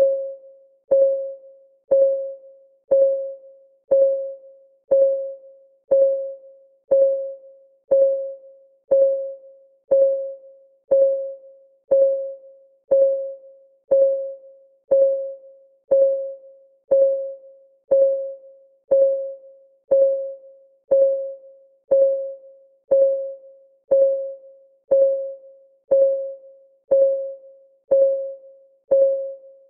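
Countdown timer's clock-ticking sound effect: one short, pitched tock every second, each starting sharply and ringing away within about half a second, in a steady unbroken rhythm.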